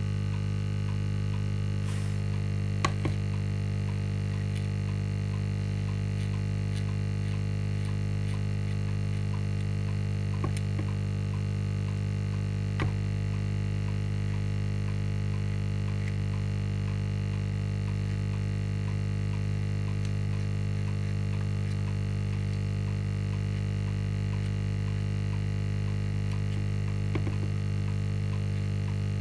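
Steady low electrical hum with a buzzy edge, with a few faint clicks and taps scattered through it.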